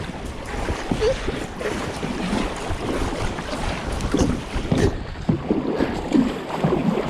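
Wind buffeting the microphone, with water lapping and sloshing against a kayak's hull.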